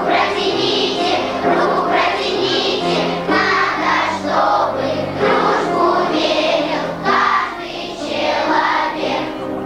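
Children's choir singing a song over a musical accompaniment with a steady bass line.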